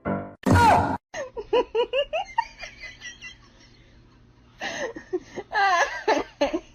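Someone laughing hard in quick repeated bursts, in two bouts with a short lull between. It opens with a brief loud cry that falls in pitch.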